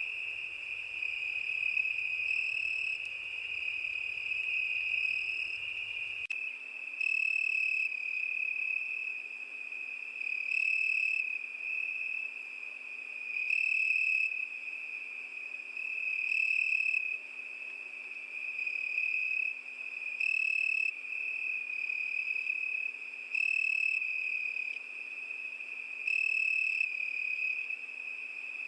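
Crickets chirping in a continuous high, steady trill that swells louder about every three seconds.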